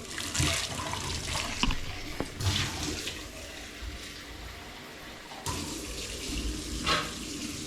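Water running and splashing, with a few light clicks and knocks of kitchenware; the water eases off about halfway through and then runs again.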